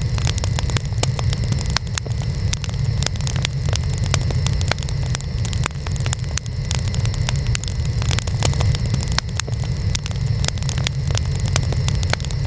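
Burning wood fire crackling, with many sharp irregular pops over a steady low rumble.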